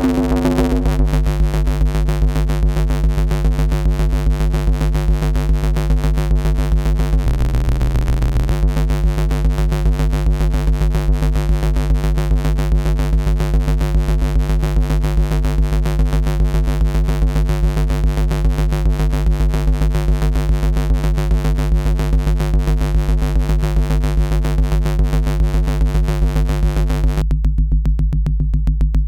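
Electronic FM bass synth patch holding one low note, buzzy with many overtones. Its tone shifts briefly about seven seconds in, and near the end the upper overtones fall away, leaving a darker low hum.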